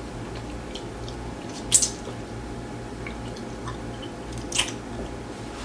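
Close-up eating of juicy grilled chicken: wet chewing and mouth smacks, with two louder wet smacks, one about two seconds in and one near the end.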